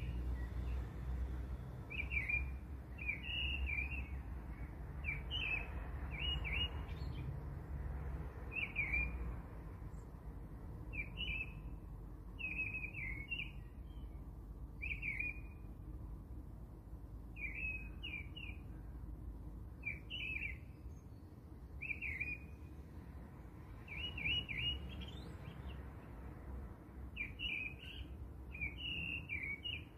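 A small songbird chirping: short high falling chirps in quick clusters, about one cluster a second with a few brief pauses, over a low steady hum.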